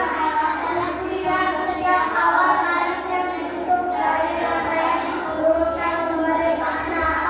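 A class of children answering together in a sing-song chorus, many voices blended into one continuous chant.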